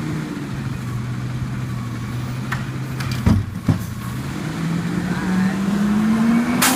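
Rubbish truck engine running at a steady idle, with two sharp knocks about half a second apart midway, then the engine note rising steadily in pitch as it revs up near the end.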